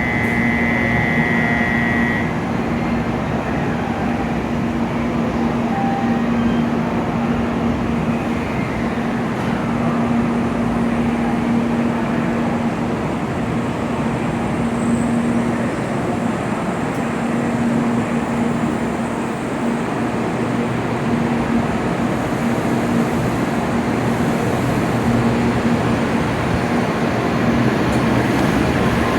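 N700A Shinkansen train at the platform: a steady rumble and hum with a low droning tone that comes and goes. A high steady tone sounds at the start and stops about two seconds in.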